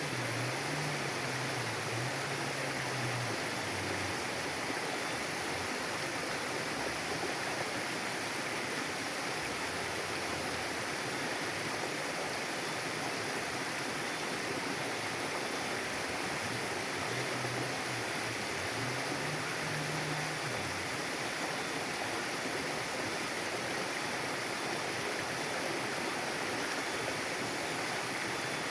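Mountain river flowing, a steady, unbroken rush of water over stones.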